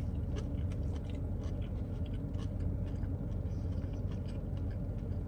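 A person biting into a pretzel-bun bacon BBQ steakburger and chewing it, giving soft irregular mouth and chewing clicks over a steady low hum.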